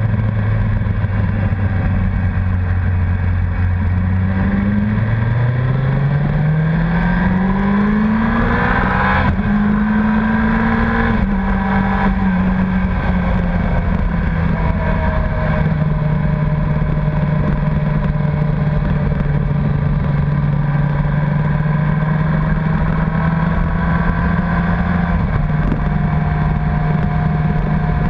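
Honda CBR1100XX Blackbird's inline-four engine under way. It runs steady at first, then rises in pitch as it pulls hard for about four seconds. The pitch drops back in steps around the middle and then settles into a steady cruise.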